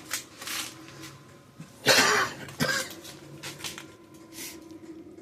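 A man coughing and clearing his throat, with one loud cough about two seconds in, over a faint steady low hum.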